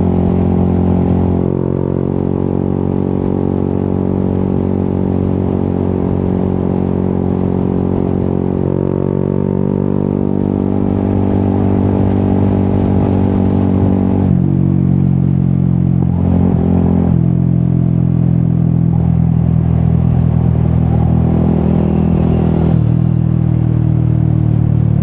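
Yamaha XSR 155's single-cylinder engine through an Akrapovic exhaust, running steadily while riding. Its pitch steps down sharply about halfway through and changes a few more times later, as the revs change.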